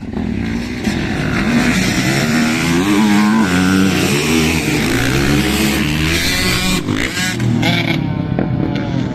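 Several motocross dirt bikes revving and accelerating together, their overlapping engine notes rising and falling as they pull away.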